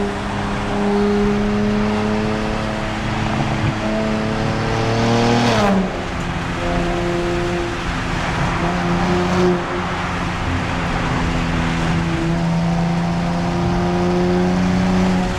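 Nissan Z Nismo's twin-turbo V6 through its Nismo Track exhaust, pulling hard under acceleration: the engine note climbs slowly, drops sharply at an upshift about five and a half seconds in, then climbs again, over steady road noise.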